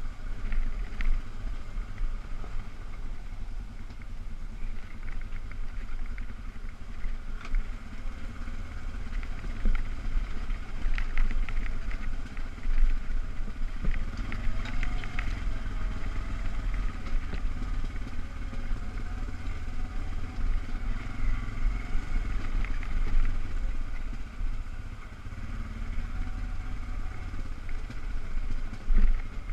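ATV engine running while riding, its loudness surging up and down with the throttle.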